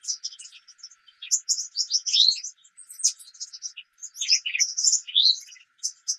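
Songbirds singing: a dense run of rapid high chirps and short rising whistles, with brief gaps.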